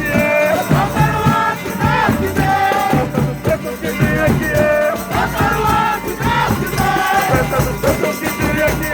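Folia de Reis ensemble singing a devotional verse in held, drawn-out notes, with hand percussion keeping a rattling, jingling beat underneath.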